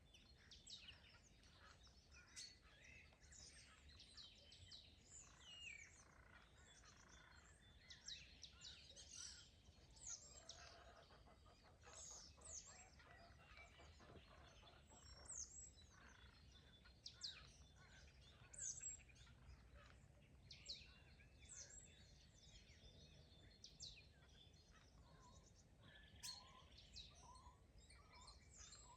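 Faint chorus of songbirds chirping and singing, many short calls and quick sweeping notes overlapping throughout, over a faint steady low rumble.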